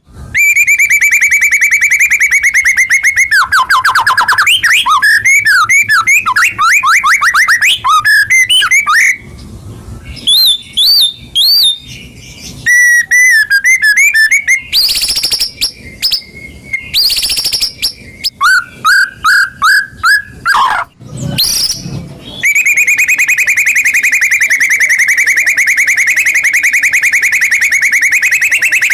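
White-rumped shama (murai batu) song, loud and close: a long rapid trill at the start, then a run of varied whistled phrases with notes sliding up and down and brief pauses, then a long rapid trill again for the last few seconds.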